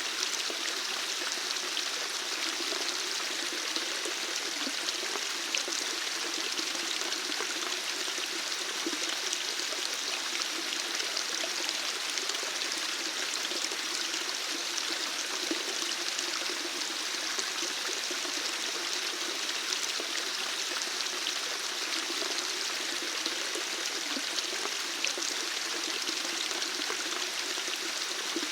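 Running water flowing steadily, a continuous stream-like rush with faint scattered ticks of splashing drops.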